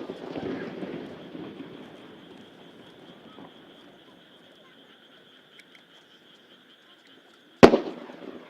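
The rolling, echoing tail of a large aerial firework shell burst fades over the first few seconds, leaving a steady high-pitched animal chorus. About 7.5 seconds in, the next shell bursts with a sharp, loud bang and begins its rumbling echo.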